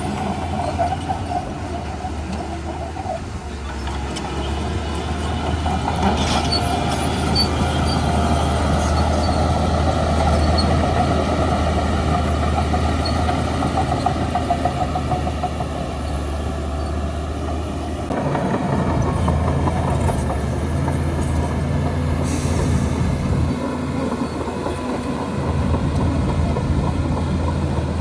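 Diesel engine of a Shantui DH17C2 bulldozer running under load with a steady low hum. It grows louder a few seconds in and changes tone abruptly about two-thirds of the way through.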